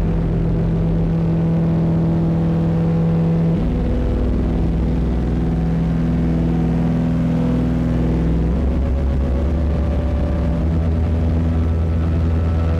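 Distorted ambient drone loop from a Eurorack modular synthesizer patch through Lyra-8-FX distortion and Mimeophon delay: low sustained tones that shift to new pitches three times.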